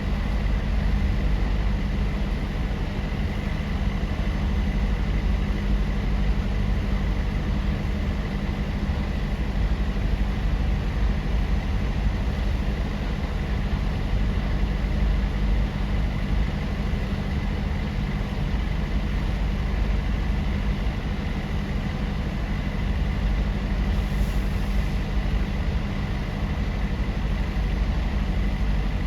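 Steady, unchanging low engine drone of heavy machinery running, with a thin high whine over it.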